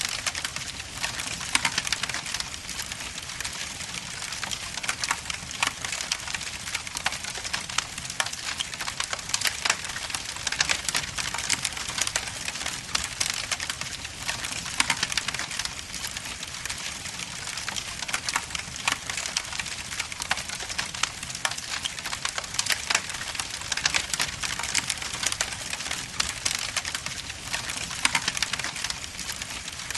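Wood logs burning in a fireplace, crackling with many small irregular pops and snaps over a steady hiss.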